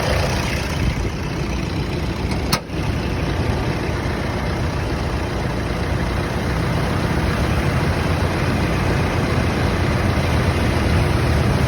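2013 Toyota Hilux turbo-diesel engine with a variable-nozzle (VNT) turbo, idling steadily. There is a single sharp click about two and a half seconds in.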